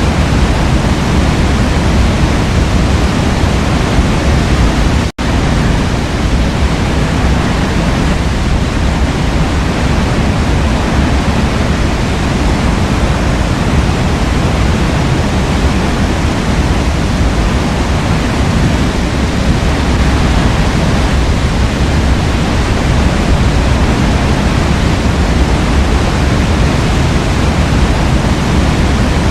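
Forest waterfall pouring: a steady, loud rush of falling water with no change in pace. The sound cuts out for a split second about five seconds in.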